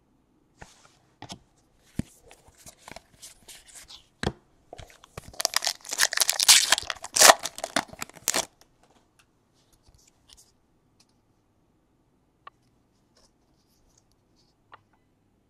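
A foil trading-card pack wrapper being torn open. Scattered taps and clicks lead into a loud run of tearing and crinkling from about five to eight seconds in, followed by a few light ticks.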